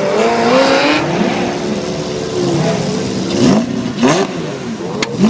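Car engines revving, their pitch climbing and falling several times in quick sweeps, with a couple of sharp clicks near the end.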